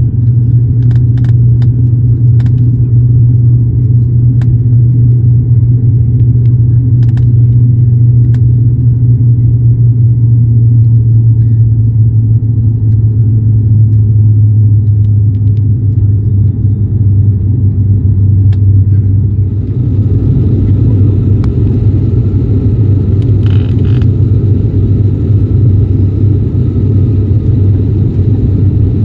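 Steady, loud low drone inside a turboprop airliner's cabin, one deep hum held over a rumble. From about two-thirds of the way through, a hiss rises on top of it.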